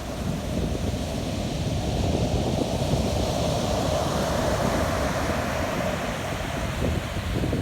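Pacific Ocean surf washing in, with a swell of wave noise in the middle, over steady wind buffeting the microphone.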